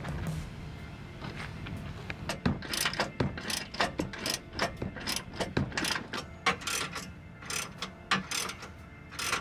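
Hand socket ratchet clicking in short, irregular strokes while it backs out a truck's front bumper mounting bolts.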